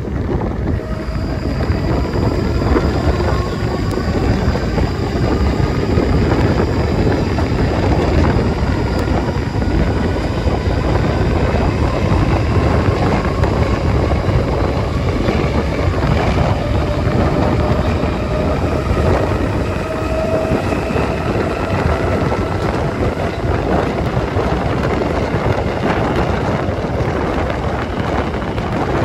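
Train running, a faint whine slowly rising in pitch over a heavy, steady low rumble.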